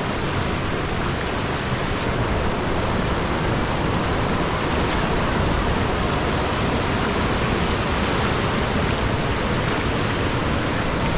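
Steady rushing of a waterfall and its flowing stream, close by.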